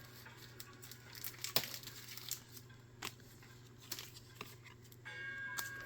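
Pokémon trading cards and a foil pack wrapper being handled: faint crinkling with a few light clicks, over a steady low hum.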